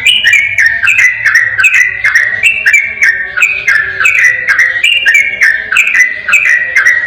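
Yellow-vented bulbul (trucukan) singing a rapid, unbroken string of clear whistled phrases in the 'ropel' style, about two a second, each stepping down in pitch.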